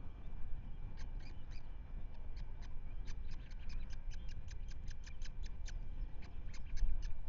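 Osprey calling: a rapid series of short, high-pitched notes, scattered at first, then about four to five a second from about three seconds in, over a low rumble.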